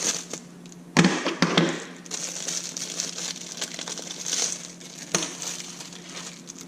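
Plastic packaging crinkling and rustling as it is cut and pulled open by hand, with a few sharp knocks of the parts being handled.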